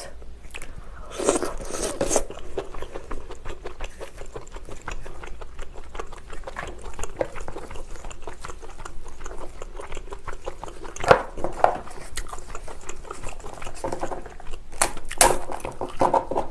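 Lobster being eaten close to the microphone: chewing with many small clicks and cracks of shell being handled, a few louder clusters among them.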